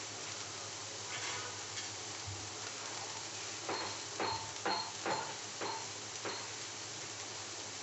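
Spiced corn kernels and tomato sizzling steadily in a frying pan. About halfway through come several light, quick clicks, each with a short ring.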